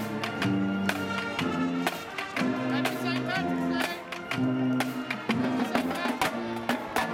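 Marching band playing: held brass-like chords that change every second or so over regular drum strikes.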